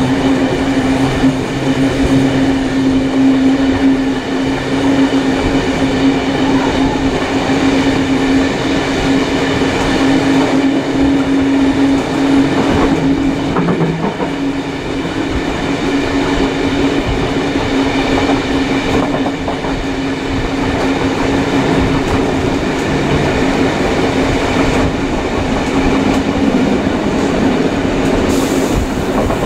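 Passenger train hauled by steam locomotive 3801 running along the track, heard at a carriage window: a steady roar of wheels on rail with a constant low hum.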